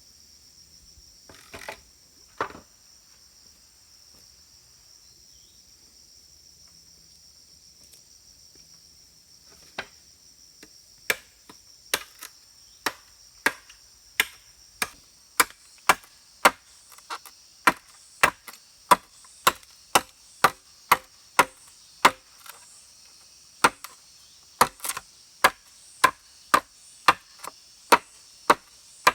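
A blade chopping into wood: two knocks, then from about ten seconds in a steady run of sharp strikes at nearly two a second. Insects hiss high and steady behind it.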